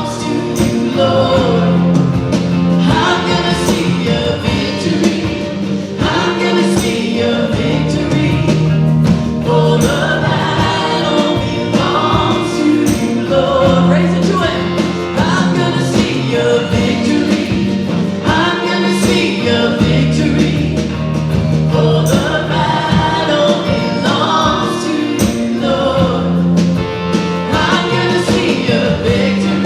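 Live contemporary worship music: a church worship band playing with singers. The sung melody rides over sustained bass notes and a regular drum beat.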